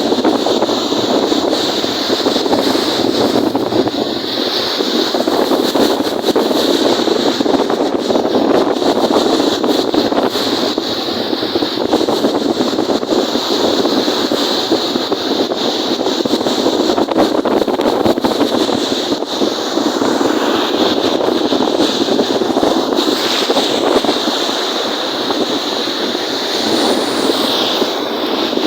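Wind-driven waves washing on Lake Kariba, under steady wind noise buffeting the microphone, a dense rushing sound that never lets up.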